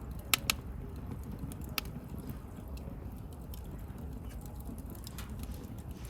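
Wood campfire burning: a steady low rumble with scattered crackles and pops, two sharp ones close together within the first second, another near two seconds, and many fainter ticks.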